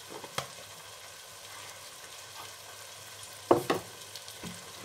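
Mutton, onion and spice masala sizzling as it is fried down in a stainless-steel pot and stirred, with a metal spoon clinking against the pot about half a second in and a couple of times near the end.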